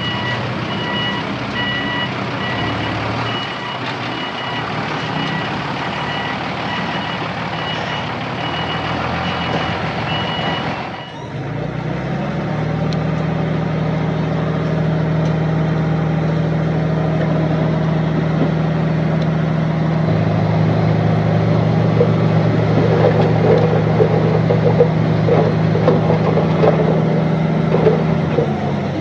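Truck engine running with its reversing alarm beeping in a steady pulse; about a third of the way in the beeping stops and the engine settles into a steady, louder run, with a rattle building near the end.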